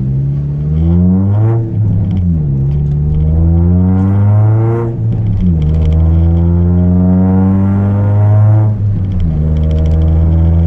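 Chevrolet Celta 1.0 four-cylinder engine on an open exhaust with a 4-into-1 header and no mufflers, accelerating through the gears. The engine note climbs, drops sharply at three upshifts, and climbs more slowly after each one.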